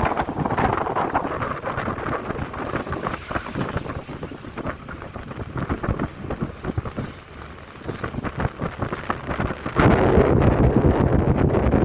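Wind buffeting the microphone aboard a moving ship, a gusty rushing noise that turns suddenly louder near the end.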